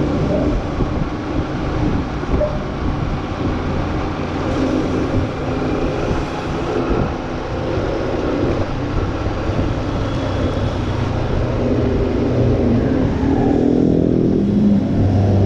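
Motor vehicle running with loud, rough road and wind noise. Near the end an engine's pitch dips and rises again.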